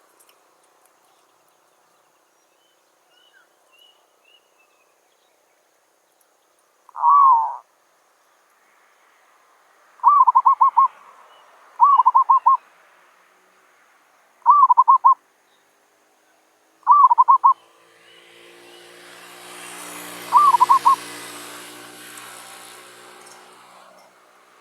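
Zebra dove (merbok) cooing: six short phrases of rapid staccato coos, a few seconds apart. In the second half a rushing noise with a low hum swells and fades under the calls.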